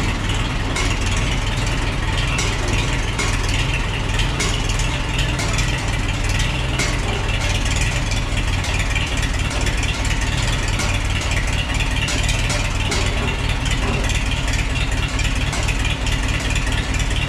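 A tractor engine, just started, idling steadily with a fast, even firing beat.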